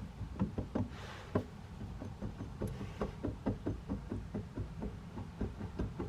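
A run of light, uneven knocks, about three or four a second, from the worn rear hub bearing assembly of a Buick Rendezvous being worked by hand. It is the sign of a bearing that is shot.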